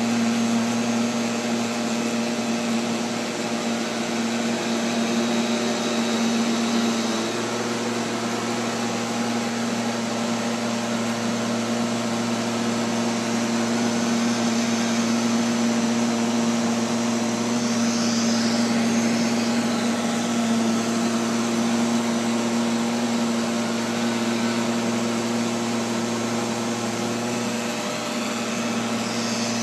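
Neato XV-11 robotic vacuum cleaner running, heard close up from on board: a steady motor hum with a broad hiss. Brief high swishes come about two-thirds in and again near the end.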